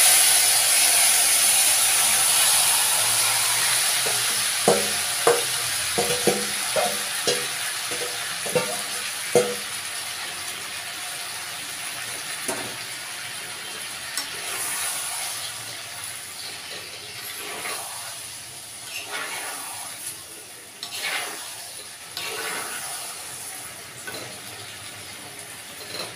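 Marinated chicken sizzling in hot mustard oil in a clay kadai, the hiss loudest at first and slowly dying down. A metal spatula stirs it, knocking against the clay pot several times a few seconds in and scraping now and then afterwards.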